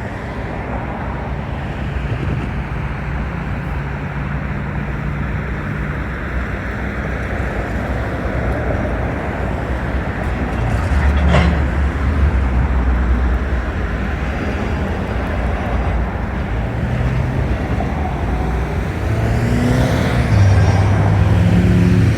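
Diesel locomotive engine running under load, its low engine note stepping up about eleven seconds in and climbing again near the end as it throttles up. A single sharp clank sounds about eleven seconds in.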